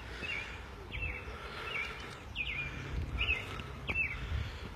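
A small bird chirping over and over, about six short calls roughly a second apart, over low, uneven rumbling.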